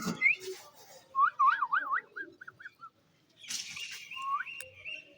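A warbling run of quick rising and falling whistles about a second in, then short upward whistles over a faint hiss near the end.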